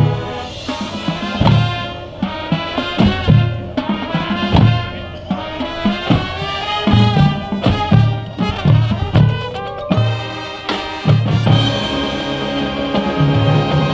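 Marching band playing: a brass section sounds sustained chords and melody over a marching percussion section's drum hits.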